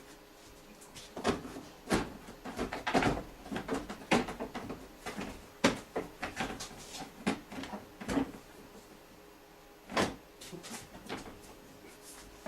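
Irregular knocks, clicks and clatter of car parts being handled and fitted, likely the engine's underbody guard going on. The sounds come in a busy run for several seconds, then one louder knock near the end.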